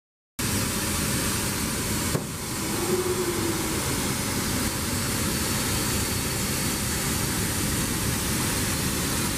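Steady rushing noise with a low rumble, cutting in suddenly about half a second in. A single click comes about two seconds in, followed by a short low hum that rises and falls.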